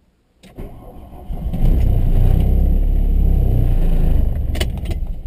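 A 1982 VW Scirocco's four-cylinder engine being started: a click, the starter cranking it over, then the engine catching and running loud about a second and a half in, before dropping back and faltering near the end as the cold old car struggles to keep running.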